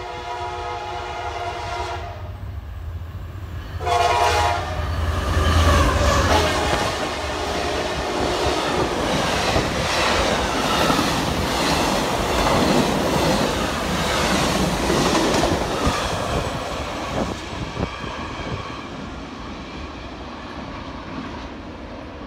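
Passing train led by two CSX F40PH diesel locomotives. It sounds its air horn in two blasts, the first about two seconds long and the second starting about four seconds in, over the low rumble of the diesel engines. Then the passenger cars roll by with the wheels clacking over the rail joints, easing off near the end.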